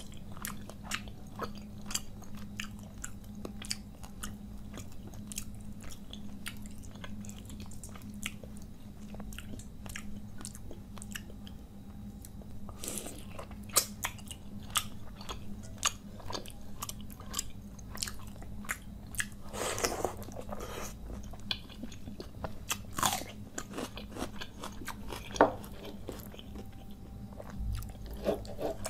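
A person chewing and biting mouthfuls of watery panta bhat rice with fried fish and side dishes, eaten by hand, with a rapid run of small wet clicks and crunches. A few longer, noisier bursts come about 13 and 20 seconds in, over a steady low hum.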